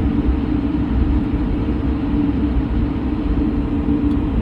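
Airplane engines running at takeoff power: a loud, steady low rumble with a constant hum that does not change.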